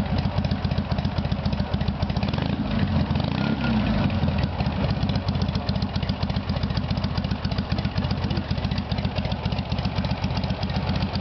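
Dnepr MT-11 motorcycle's flat-twin engine idling, with an even, rapid firing beat.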